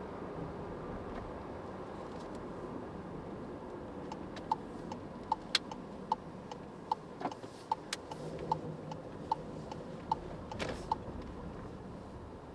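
Car's turn-signal indicator ticking inside the cabin over steady road and tyre noise: a tick–tock about every 0.8 s, starting about four seconds in and stopping near the end, with two brief swishes partway through.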